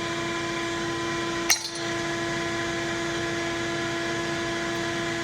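Steady machine hum with several held tones, and a single sharp metallic click about a second and a half in.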